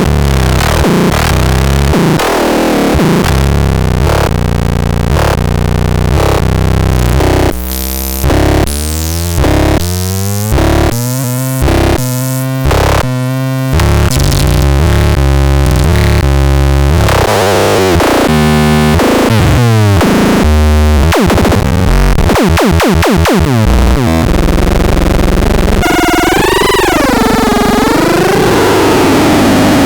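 Loud electronic synthesizer music with heavy bass notes and sweeping pitch glides. About a third of the way in it turns choppy, with repeated short cut-outs, and near the end a wobbling, warbling tone takes over.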